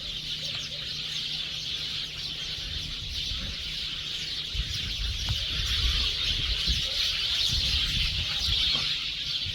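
A flock of many small gray birds chattering and chirping all at once in a tree, a dense, unbroken racket, typical of birds gathering to roost for the night. A low rumble rises under it from about halfway.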